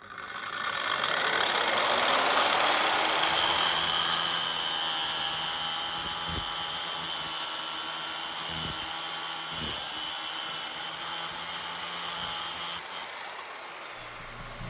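A power grinder running steadily, grinding down a steel 10 mm Allen wrench to fit a 3/8-inch hex bolt. The tool spins up over the first couple of seconds and eases off near the end.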